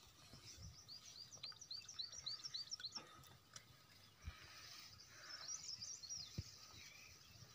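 A small bird singing faintly: a run of about nine short high notes repeated about four a second, then a brief twitter later on, over faint outdoor background noise with a few soft low knocks.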